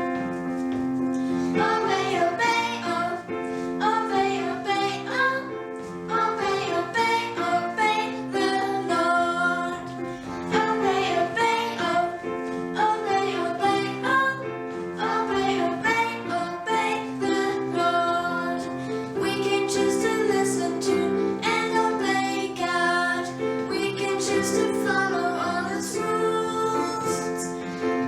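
A praise song: a female voice singing a melody over sustained piano or keyboard chords.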